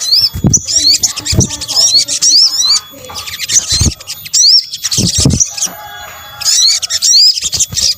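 Olive-backed sunbird song: bursts of rapid, high, sweeping chirps and trills with short pauses between them, and a few low thumps mixed in.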